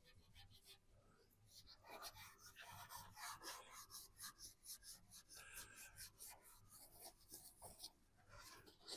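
Faint, quick scratchy strokes of hand-sanding on the primed steel body panel of a VW T25 van, rubbing the primer coat flat. The strokes start about a second and a half in and go on until near the end.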